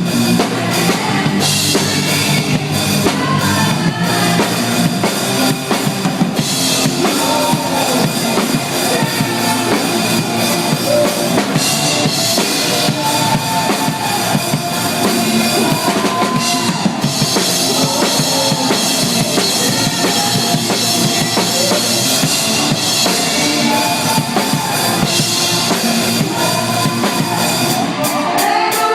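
Band playing a song live, the drum kit loud in the mix with bass drum and snare hits under a pitched melodic line.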